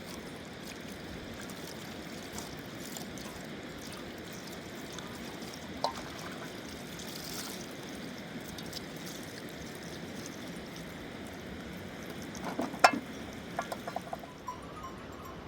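River water running steadily. A sharp click sounds about six seconds in, and a cluster of knocks and clicks comes near the end.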